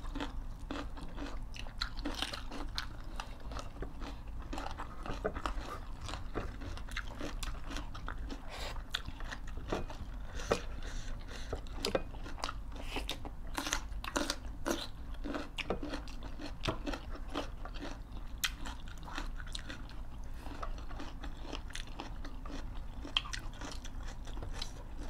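Close-up eating sounds of two people chewing and biting mouthfuls of food, with many sharp, irregular crunches and mouth clicks.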